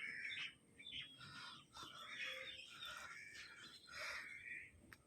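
Faint birdsong: birds chirping in short calls.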